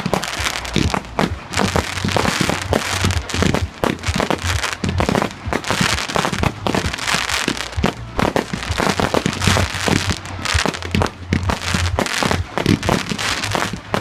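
Fireworks display going off in a dense, continuous barrage of bangs and crackling, with no pause.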